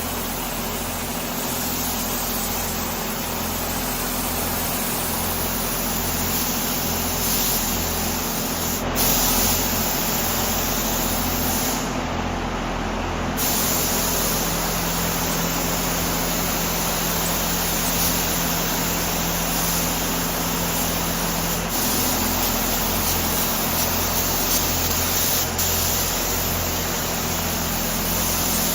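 Paint spray gun hissing steadily as compressed air sprays paint, with a steady low machine hum underneath.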